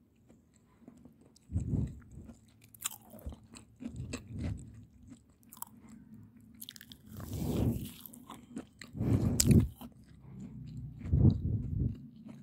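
Someone biting into and chewing a freshly baked vanilla chocolate-chip muffin, its crisp top crunching in irregular mouthfuls.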